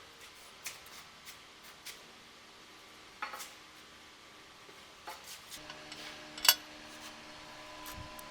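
Scattered light clinks and taps of small hard objects, with one sharp clink about six and a half seconds in; a faint steady hum starts about halfway through.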